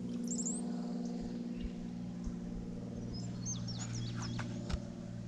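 Small birds chirping: a quick run of high chirps just after the start, then a longer flurry of chirps about three seconds in, over a steady low hum.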